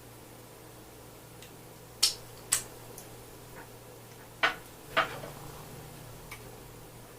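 Tableware clinking during a meal: four sharp clicks in two pairs, about two seconds and four and a half seconds in, with a few faint ticks between.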